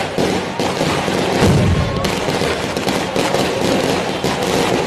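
Fireworks going off in a fire: a loud, dense, continuous crackle of rapid bangs.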